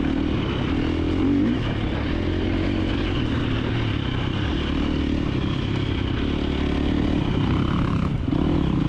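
2024 KTM 350XC-F dirt bike's single-cylinder four-stroke engine running under the rider at varying throttle, the note rising and falling slightly while riding through a trail section.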